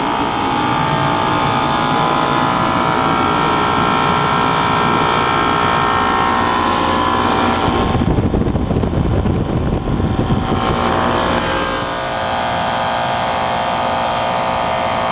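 Lennox central air conditioner's outdoor unit, with a two-speed scroll compressor, running with a steady hum of several tones. For a few seconds in the middle a low rumble covers it, then the hum returns. The owner finds it irritatingly noisy, though technicians say it is working properly.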